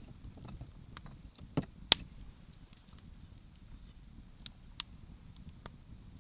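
Wood campfire crackling, with a low steady rumble and scattered sharp pops, the loudest two close together about two seconds in and a few more near the end.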